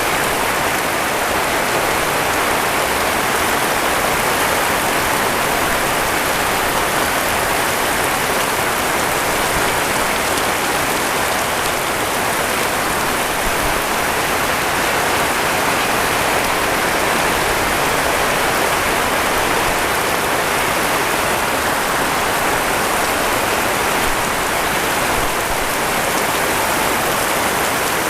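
Heavy rain falling steadily, a dense unbroken hiss of drops on surfaces.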